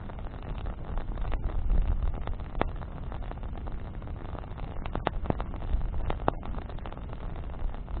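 Bonfire of burning branches crackling, with scattered sharp pops that come several close together about five to six and a half seconds in, over a low steady rumble.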